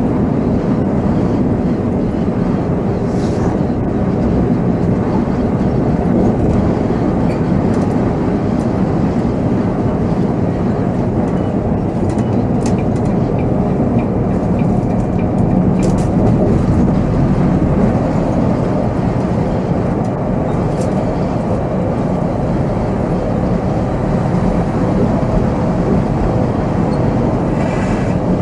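Volvo B7R coach's diesel engine and drivetrain running steadily while the coach is driven, with road noise, heard from the driver's position. A few faint short clicks sound over it.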